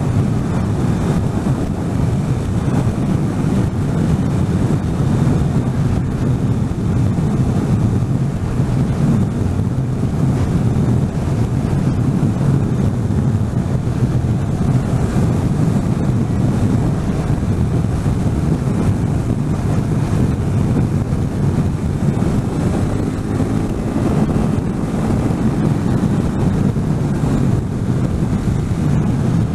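Steady low rush of wind buffeting the microphone on a moving motorcycle, with the motorbike's engine and road noise underneath.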